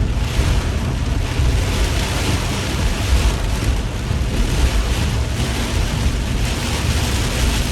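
Heavy rain and road spray beating on a moving car's windshield and roof, over a steady low road and tyre rumble, heard inside the cabin.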